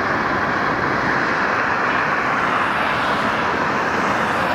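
Steady, even rushing noise with no distinct events, of the kind heard from an outdoor construction site with traffic and air movement.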